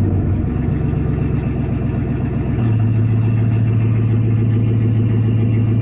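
GM 5.3-litre V8 idling, stepping up slightly in speed about two and a half seconds in and then running steadily. No knock is heard: the owner judges it healthy, although it was said to have lost its oil through a failed rear main seal and started knocking.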